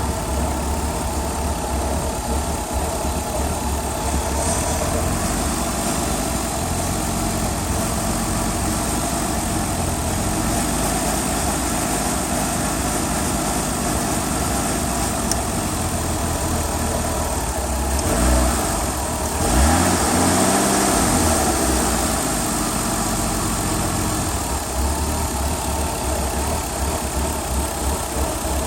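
2000 Mercury Sable's V6 engine idling steadily, with a brief rise and fall in engine speed about two-thirds of the way through.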